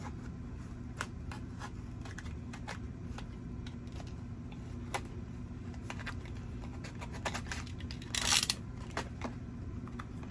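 Hands handling packaging: scattered light clicks and taps, with a brief rustle about 8 seconds in, over a steady low hum.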